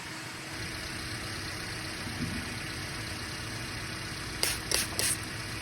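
An engine idling steadily, with three short, sharp noise bursts in quick succession near the end.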